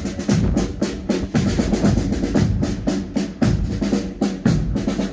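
Drumming, snare and bass drum beating a fast, steady rhythm with rolls.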